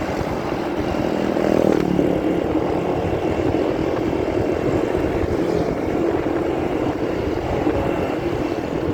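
Motorcycle riding noise picked up by a phone in a pocket: steady engine drone and rush of wind, muffled and rumbling. A tone drops in pitch about two seconds in.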